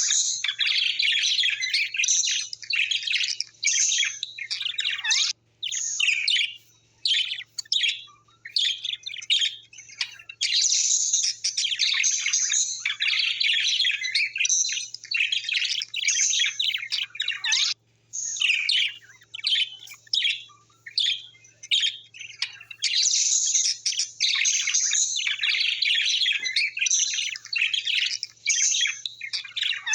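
Small birds chirping and chattering almost without a break, a dense stream of quick, high calls with a few short pauses, over a faint steady low hum.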